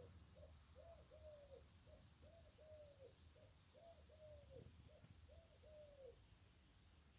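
A bird calling faintly in the distance, repeating a two-note phrase about every second and a half: a short note, then a longer note that falls away.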